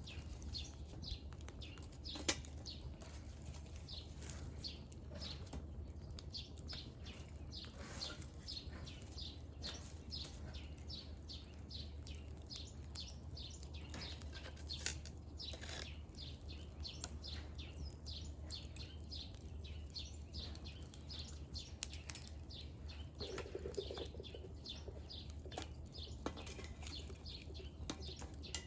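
Firewood crackling as it burns in a fire pit, with many small irregular pops, a few of them louder, over a steady low hum.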